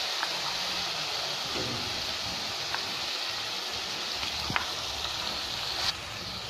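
Onions frying in hot oil in a metal karai, a steady sizzling hiss, as a wet spice paste of turmeric, chilli and coriander is added to the pan. A few light clicks from the spoon or bowl against the pan are scattered through it.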